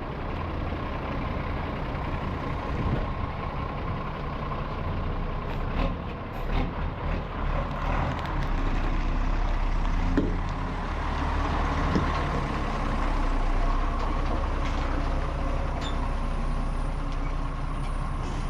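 Nissan truck engine running steadily, its low rumble growing a little stronger about ten seconds in.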